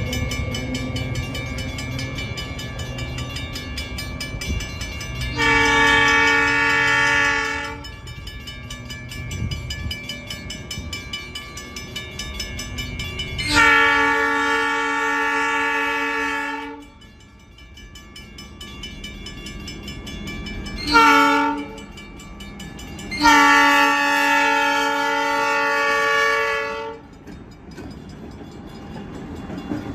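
Diesel freight locomotive's multi-tone air horn sounding the grade-crossing signal: two long blasts, a short one, then a long one. A low engine rumble sits under the horn, strongest at the start.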